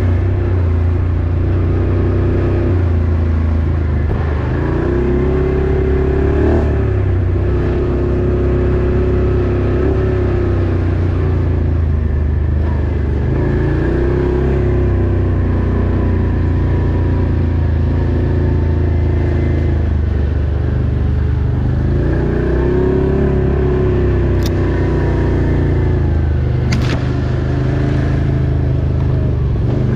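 Engine of an off-road vehicle running continuously while under way, its pitch rising and falling over and over as the throttle opens and closes. Two short sharp clicks near the end.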